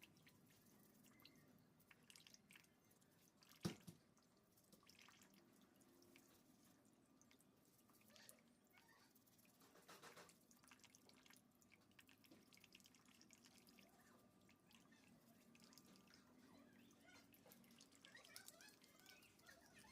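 Near silence: room tone with scattered faint ticks and one sharp click about four seconds in.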